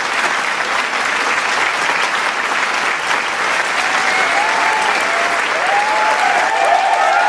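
Large crowd applauding with dense, steady clapping. From about halfway, cheering shouts and whoops rise over the clapping and grow toward the end.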